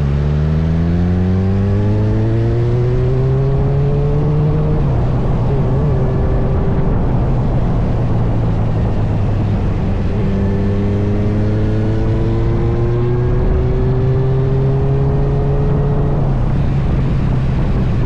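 Kawasaki Z900 inline-four motorcycle engine pulling under throttle. Its pitch climbs for about five seconds, drops at a gear change, then climbs again before another change near the end, over steady wind rush.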